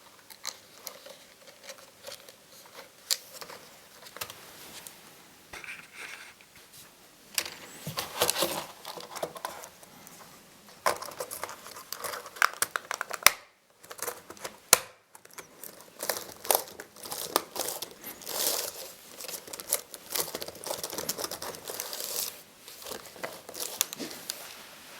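Crinkling and tearing handling sounds with many scattered sharp clicks, broken by two brief gaps about 13 and 15 seconds in.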